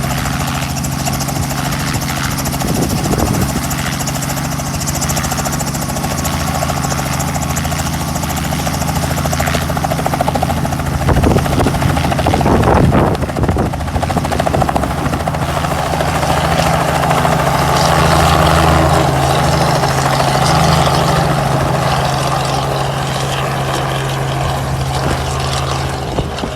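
Helicopter in flight: a loud, steady engine-and-rotor hum under a dense rushing noise, with a couple of brief bumps near the middle.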